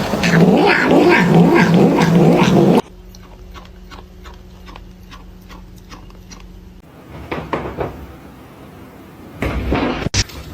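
A cat vocalising loudly for about the first three seconds, ending in an abrupt cut. A quieter stretch follows, with a steady low hum and soft ticks about three a second, and louder sounds come back near the end.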